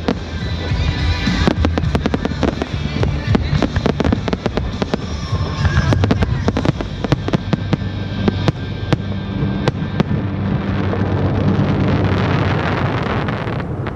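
Fireworks shells bursting in many sharp bangs over loud accompanying music. Toward the end the bursts thicken into a dense crackle, then cut off suddenly.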